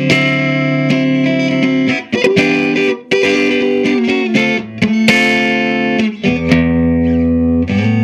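Electric guitar played through a 15-watt cathode-biased EL84 valve amplifier with overdrive and sustain: a run of strummed chords, each left ringing for a second or two, the last one held at the end.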